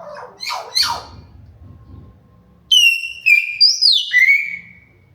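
Hill myna calling: two short sweeping calls, then about two seconds of loud whistled notes that step and glide up and down in pitch.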